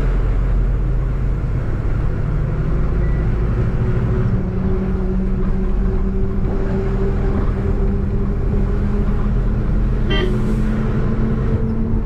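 Truck engine running steadily with road noise while driving, a constant low rumble. About ten seconds in there is a brief higher-pitched sound.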